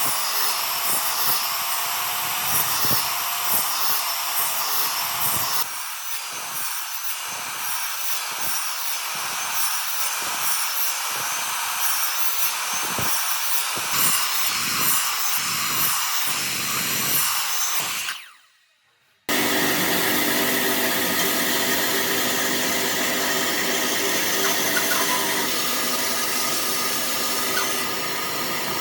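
Electric power tools working wood. For the first part, a tool runs with an even back-and-forth stroking pattern. After a sudden break of about a second, another motor runs steadily with an even hum.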